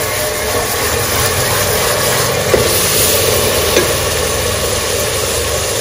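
Chopped onion frying in hot mustard oil in an aluminium pot: a steady sizzle, with a faint tick or two from a wooden spoon.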